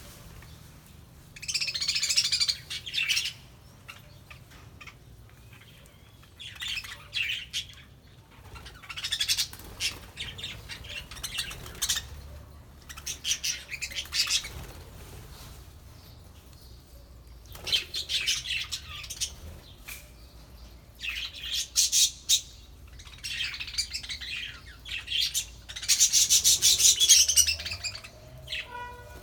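Flock of budgerigars chirping and chattering in repeated bursts of a second or two, with short quieter gaps between them; the loudest burst comes near the end.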